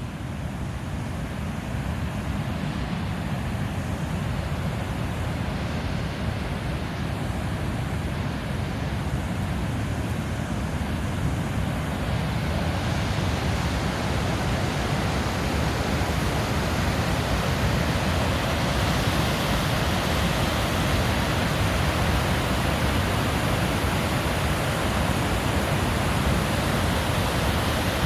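Rushing water at a hydroelectric power station, a steady noise with no distinct events that grows gradually louder.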